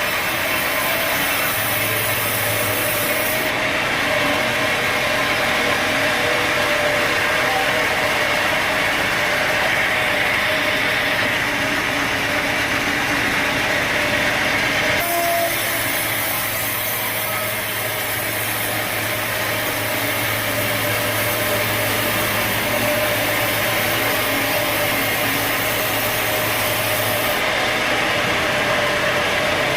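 Sawmill machinery running steadily: a dense mechanical noise with a faint steady whine and a low hum. The sound changes abruptly about halfway through.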